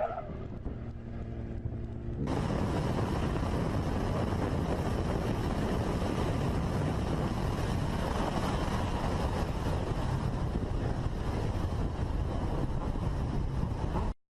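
Motorcycle engine running steadily. About two seconds in, it switches abruptly to a loud, steady rush of wind and engine noise from a moving motorcycle, which cuts off just before the end.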